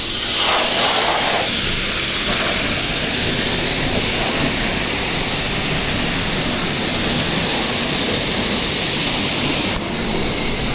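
A steady, loud rush of wind noise over the microphone, as from a motorcycle riding at speed. The rush eases a little near the end.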